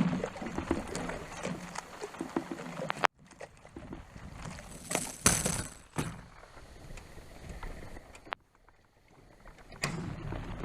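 Aluminum canoe moving through shallow river water: water splashing and sloshing around the hull, with scattered knocks, in several short clips that start and stop abruptly.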